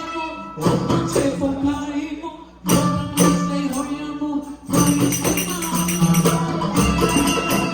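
Live music with a tambourine shaking and striking over sustained pitched instruments, pausing briefly twice before a denser stretch of rapid tambourine hits.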